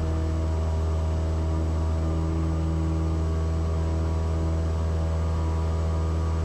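Cessna 172S's four-cylinder Lycoming IO-360 engine and propeller running steadily at climb power after takeoff, a constant low drone heard inside the cabin.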